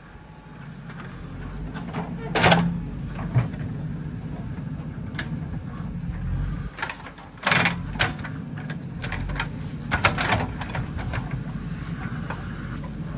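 JCB 3DX backhoe loader's diesel engine running steadily under work, with sharp knocks and clanks from the digging gear, the loudest about two and a half seconds in and again around seven and a half and ten seconds in.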